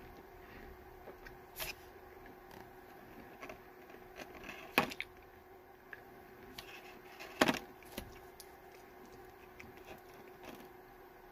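Slow chewing of hard, frozen Mike and Ike chewy candies, with small mouth and teeth clicks and two sharper clicks about five and seven and a half seconds in, over a steady faint hum.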